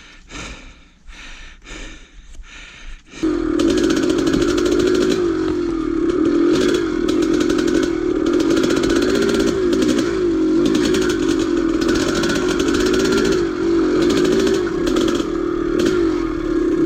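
Old dirtbike's engine comes in suddenly about three seconds in and keeps running loudly, its pitch wavering up and down as the throttle is worked on the trail. Before that there are only quieter knocks and rustles.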